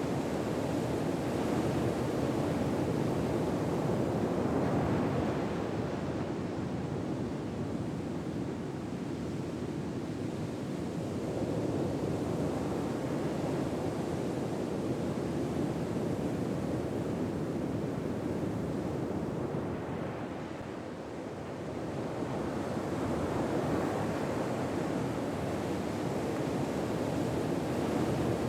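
Gentle ocean waves washing on a shore, a steady rushing that swells and ebbs slowly.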